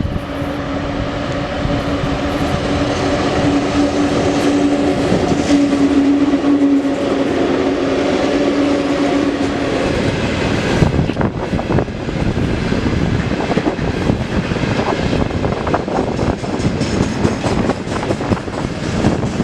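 Freight train hauled by a VL11 electric locomotive running past. A steady hum is heard during the first half and ends about ten seconds in. It gives way to a rapid, uneven clatter of wagon wheels over rail joints.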